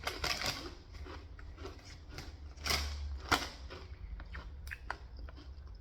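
Close-up eating sounds: chewing leftover pizza, with many small wet mouth clicks and two louder bites near the middle.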